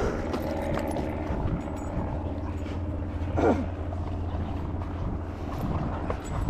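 A steady, low engine drone from distant motor traffic. About halfway through, a short falling squeal cuts across it.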